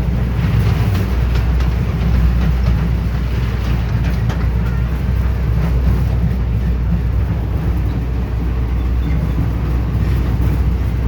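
Train ride running steadily: a constant low rumble with faint scattered clicks.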